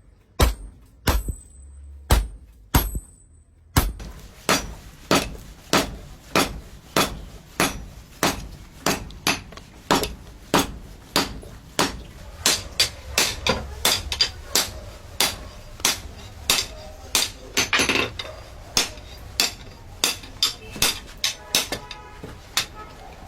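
Hand hammer blows on a khukuri blade being forged. A few spaced strikes at first, then from about four seconds in a steady rhythm of about two blows a second.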